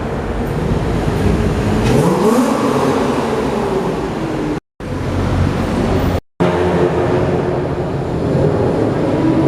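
Car engines running and revving, with one rev rising about two seconds in, then a steadier engine note. The sound cuts out completely twice for a split second in the middle.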